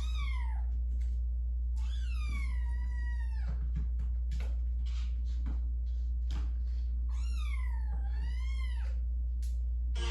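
Kitten meowing three times: a short falling meow, a long drawn-out meow a couple of seconds later, and a wavering meow near the end. A steady low hum runs underneath.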